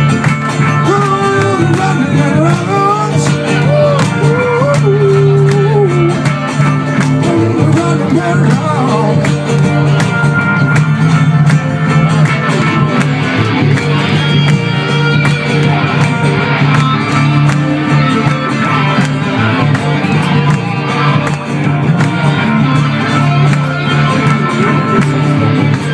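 Live acoustic band music in an instrumental break: steadily strummed guitar over a sustained low bass, with a wavering melodic lead line through the first several seconds.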